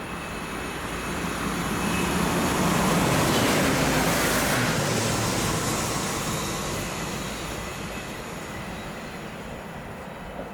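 A train passing by: a rushing rail noise that swells to its loudest about three to four seconds in, then slowly fades away.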